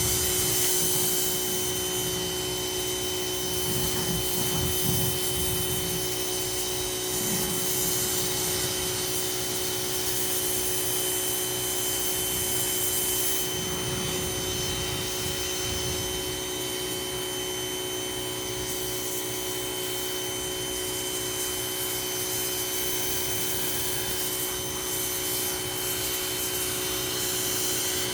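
Ryobi 2000 psi pressure washer running steadily with a constant motor-and-pump whine under the hiss of the water spray. The hiss swells and eases several times as the spray moves.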